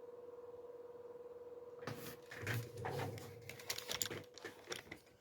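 A faint steady electrical hum, then from about two seconds in, irregular clicks, taps and rustles of objects being handled close to the microphone.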